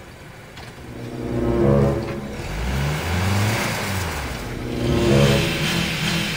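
Honda SUV engine revving in three surges that rise and fall, with a hiss building from about halfway through.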